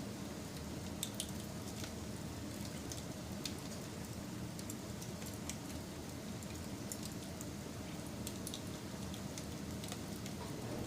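Wood fire crackling: a steady low rush with irregular sharp snaps and pops, and a couple of louder snaps about a second in.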